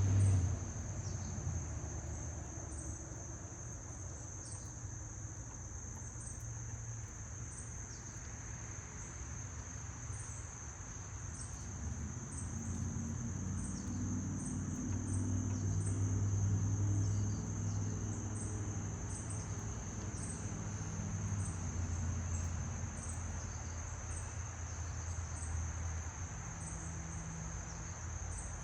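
Crickets trilling steadily on one high continuous note, with short higher chirps about once a second. A low rumble swells and fades underneath, loudest around the middle.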